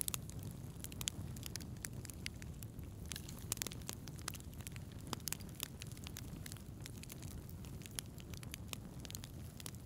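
Wood fire crackling in a fireplace: frequent irregular pops and snaps over a steady low rumble of burning.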